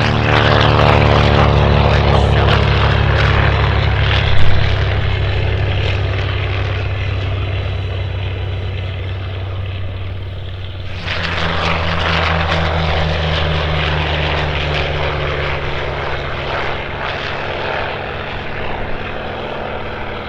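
Grumman TBM Avenger's Wright R-2600 radial engine at full takeoff power, dropping in pitch as the plane passes, with a brief loud thump about four seconds in. About eleven seconds in the sound switches abruptly to another loud propeller-engine pass that slowly fades.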